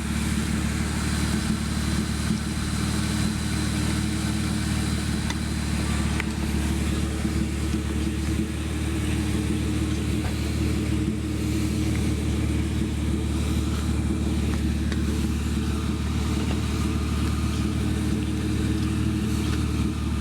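BMW E36's engine running at a steady, unchanging speed, with no rise in revs.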